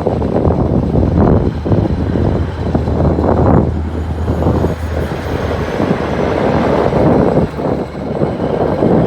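Diesel engine of a 1974 Kenworth W900 semi truck running loud through straight-pipe stacks with no mufflers, its sound swelling and easing several times.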